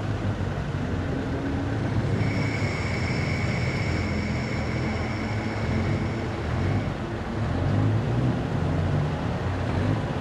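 Car engines running at low speed, a steady low hum that rises and falls a little. A thin high whine sounds over it from about two seconds in until about seven seconds in.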